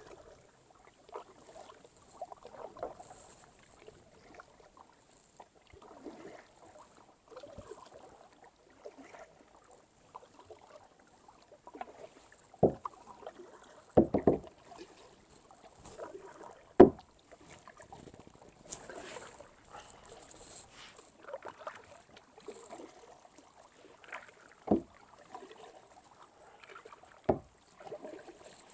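Kayak paddle strokes dipping and splashing in the water in an uneven rhythm, with about five sharp knocks standing out louder over the strokes.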